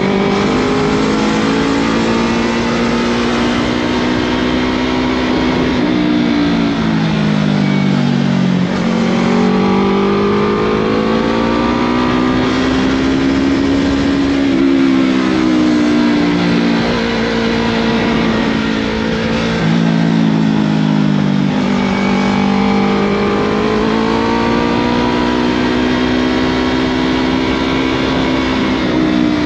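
Yamaha MT-03 motorcycle engine running through a Scorpion full-system aftermarket exhaust while riding, its note climbing and falling several times with the throttle, with sudden drops in pitch about a quarter of the way in, just past halfway and about two-thirds through.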